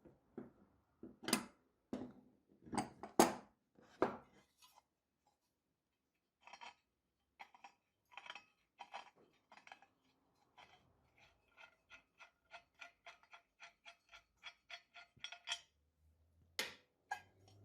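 Metal drill press parts and hand tools being handled on a bench: a few sharp metallic clanks, then scattered clicks. After that comes an even run of light ringing metal ticks, about three a second, and two more knocks near the end.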